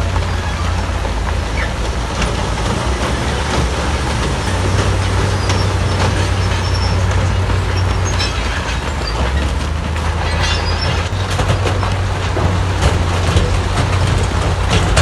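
Heavy diesel earthmoving machinery running steadily under load, a deep continuous rumble with scattered metallic clatter and short squeaks.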